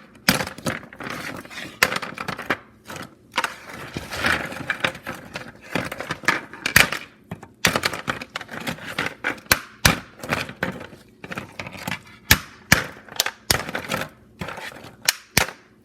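Hardened peanut brittle being snapped into pieces by hand: a long irregular run of sharp cracks and clicks.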